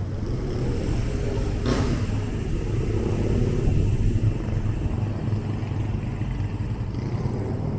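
Steady low rumble of city road traffic, with a brief swish about two seconds in.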